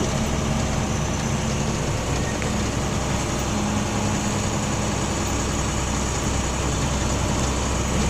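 Box truck's diesel engine running steadily at low speed as the truck creeps along, an even low hum with no change in pitch.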